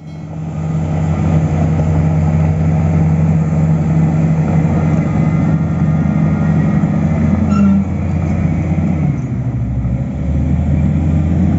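Heavy-equipment diesel engine running steadily, its pitch rising briefly past the middle, then dropping for a second or two before settling back.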